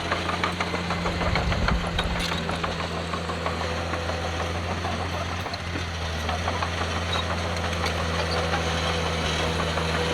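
Heavy diesel engine of earthmoving machinery running steadily, with scattered clicks and knocks, thickest in the first few seconds.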